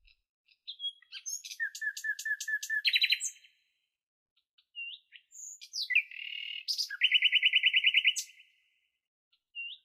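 Myna calling: several bouts of fast repeated chirps and whistling notes, separated by short pauses.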